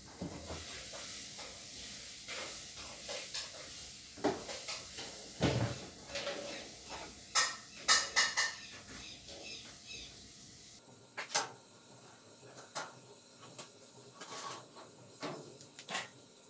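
Scattered clinks, knocks and light metallic rattles of tools and metal parts being handled while working on a washing machine, with a quick run of ringing metal strikes about halfway through.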